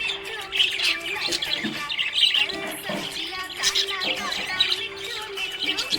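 Budgerigars chirping and warbling in a continuous, overlapping chatter of many short calls.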